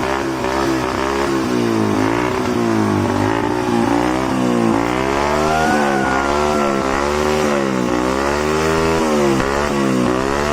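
Motorcycle engine running through its exhaust silencer, with an engine note that rises and falls over and over as the throttle is worked.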